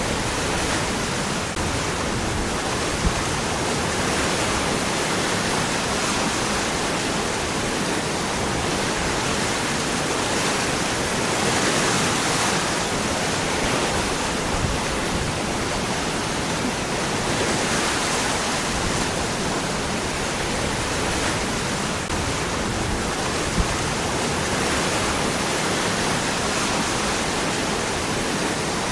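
Waterfall: water falling and running over rocks in a steady, full rush that swells slightly now and then.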